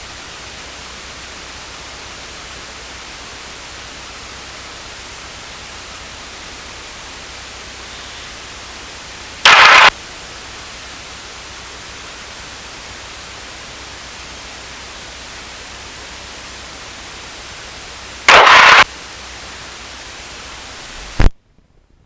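Steady static hiss from an aircraft intercom recording feed. It is broken twice by short, loud bursts of noise, about nine and eighteen seconds in, and cuts off suddenly near the end.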